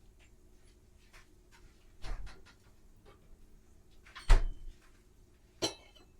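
Kitchen handling sounds: a knock about two seconds in, a louder thud a couple of seconds later, and a short ringing clink near the end, like a cupboard door, dishes or utensils being set down.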